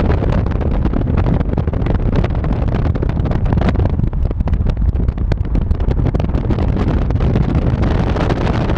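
Wind buffeting the microphone: a loud, steady rumble with constant crackle.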